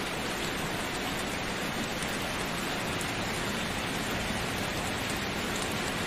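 Steady rain falling and pattering on a surface, an even constant hiss.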